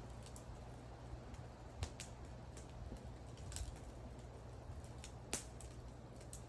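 Wood fire burning with a soft steady rumble of the flames and scattered sharp pops and crackles from the burning wood, a few louder pops spread through.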